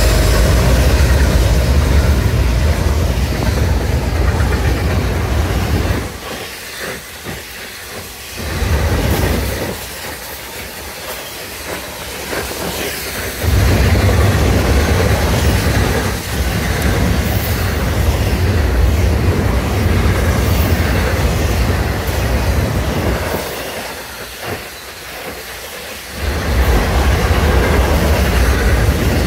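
Florida East Coast Railway intermodal freight train rolling past at speed: a steady rumble and clatter of wheels on the rails, dropping quieter for a few seconds three times before coming back up.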